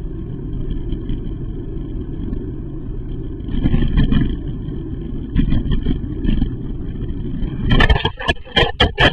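Steady road and engine noise of a car as picked up by a dash camera. Near the end comes a quick run of sharp knocks and bangs.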